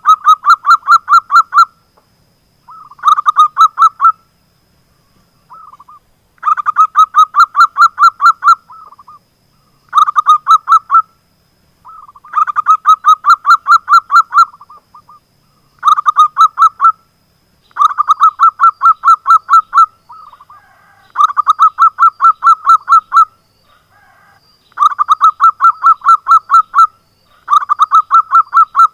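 Zebra dove (perkutut) song: phrases of rapid, clipped cooing notes, about eight a second, each phrase a second and a half to two and a half seconds long and repeated every two to three seconds.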